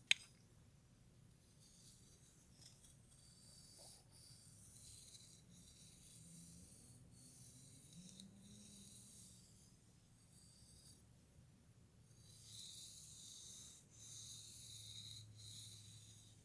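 Faint, soft swishing of a brush stroking through hair, in repeated strokes of a second or two with short gaps between them. A single sharp click right at the start.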